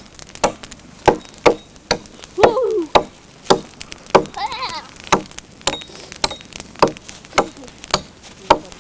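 Hatchet chopping brushwood for a campfire: quick, sharp strokes about two a second. Two brief voice calls come in between.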